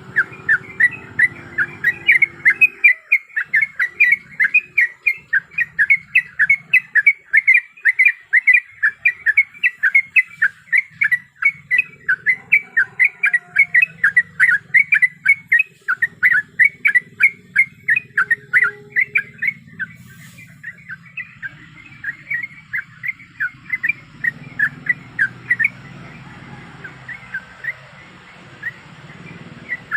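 Yellow-vented bulbul (trucukan) calling in a fast, steady run of short chattering notes, about four a second. The notes grow fainter from about two-thirds of the way in.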